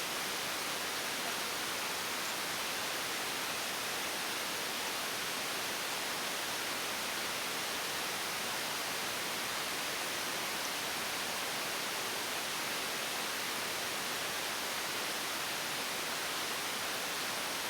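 A steady, even hiss, with no distinct tool or engine sounds in it.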